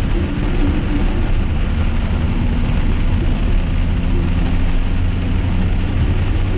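Steady low rumble of a car's engine and tyres heard from inside the cabin while driving, with faint held tones over it.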